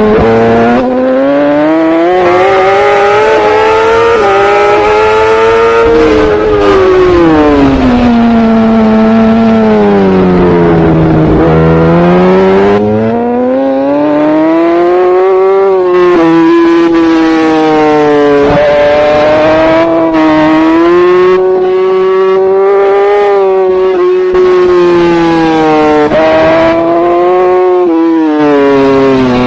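Superbike engine at racing speed, heard loud and close. Its pitch climbs for several seconds under acceleration and then drops away as the bike slows for corners, rising and falling several times.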